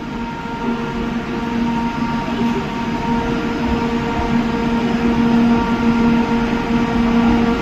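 Electric passenger train pulling into a station platform: a steady hum with several held tones over running noise, growing gradually louder.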